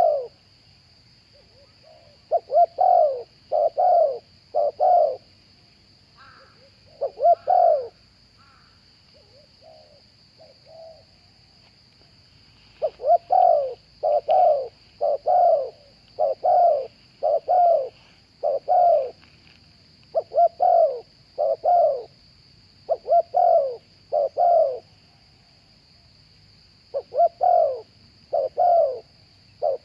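Spotted doves cooing: runs of short, low, slightly falling coos, three to seven notes in a row with pauses between the runs.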